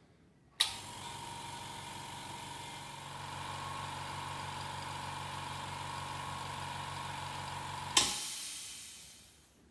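Electric air compressor switching on, running steadily with a hum and whine, then cutting off with a burst of air hiss that fades over about a second and a half.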